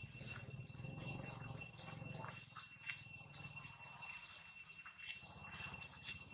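A small bird chirping over and over, short high calls about two or three a second, over a steady high-pitched insect drone.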